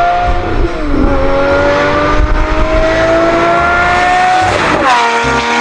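Sports car engine sound effect, revving: the note dips about a second in, then climbs steadily as the car accelerates, and near the end jumps to a higher, steady note.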